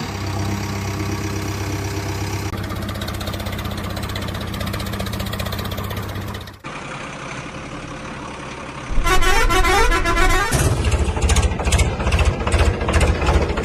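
Heavy diesel machinery running: a steady engine note, then after a sudden cut a quieter engine, a short run of repeated stepping horn tones about 9 s in, and from about 10 s a louder diesel engine with a fast pulsing beat.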